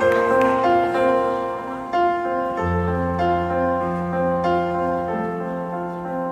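Piano introduction of a pop ballad: a gentle repeating piano figure, with a low sustained bass note coming in about two and a half seconds in.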